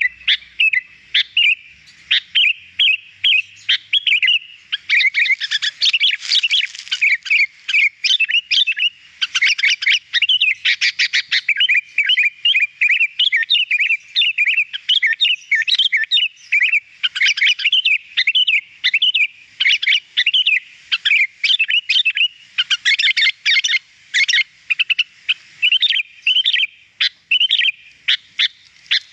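Sooty-headed bulbul (kutilang) in full song: a fast, unbroken run of chirps and whistled notes.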